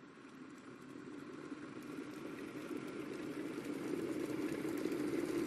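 Electric kettle heating water: a low, rumbling hiss that grows steadily louder.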